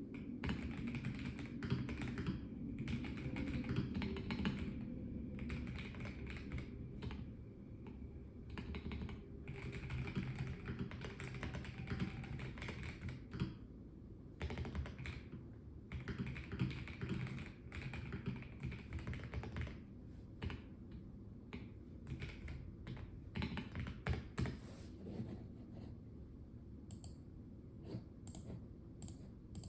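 Typing on a Melgeek Mojo84 mechanical keyboard with a plastic case: runs of quick keystrokes with short pauses between them, thinning to scattered single keypresses over the last few seconds.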